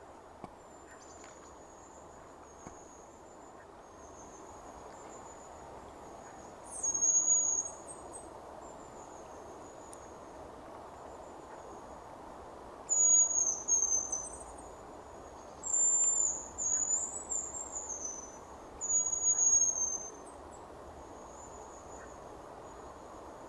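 Hazel grouse whistling: thin, very high-pitched whistles repeat faintly throughout, with four louder, longer whistled phrases in between. These are contact calls between a hen and the birds answering her.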